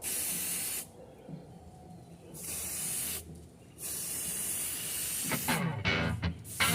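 Aerosol spray can sprayed in three short bursts of hiss with pauses between, with music playing underneath.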